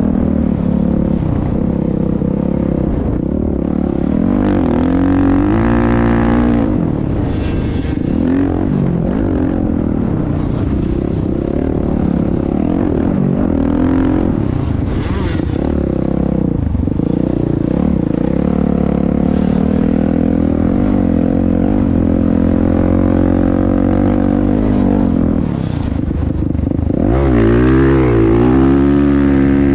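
Motocross motorcycle engines running hard, their pitch rising and falling again and again as the throttle opens and closes, swelling louder near the end.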